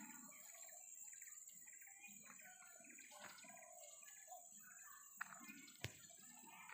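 Faint outdoor ambience with distant birds chirping, and a single sharp click near the end.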